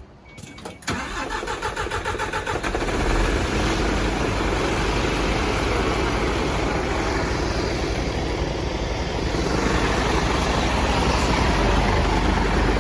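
A vehicle engine is cranked by its starter for about two seconds, then catches and settles into a steady idle.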